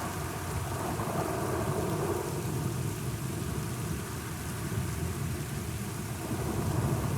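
Steady rain with a low, continuous thunder rumble underneath, swelling slightly near the end.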